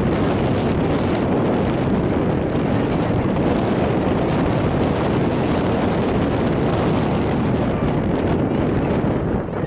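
Wind buffeting the camera's microphone: a steady, loud rumbling rush that flutters slightly, with no distinct events.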